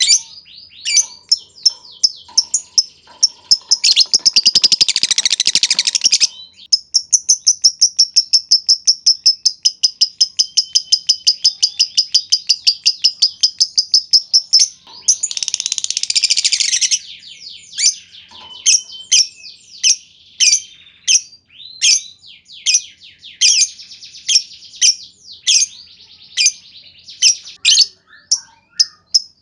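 Lovebird calling: sharp high chirps, a harsh rattling chatter burst, then a long rapid run of evenly spaced notes lasting about eight seconds, the drawn-out trill that keepers call ngekek panjang. Another rattling burst follows, then single sharp chirps about twice a second.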